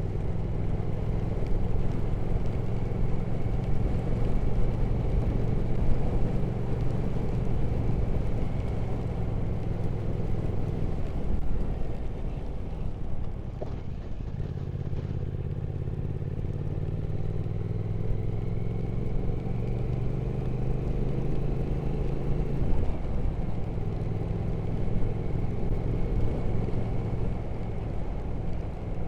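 Triumph Speed Twin 1200's parallel-twin engine running on the road. The revs ease off for a few seconds about halfway through, then pick up again, the pitch slowly rising and falling with the throttle.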